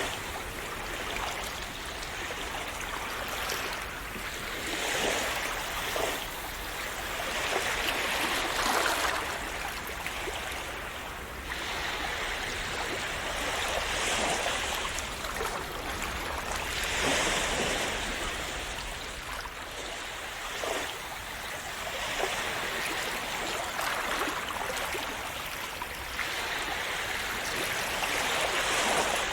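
Calm sea waves splashing and washing ashore in a continuous hiss that swells and eases every few seconds.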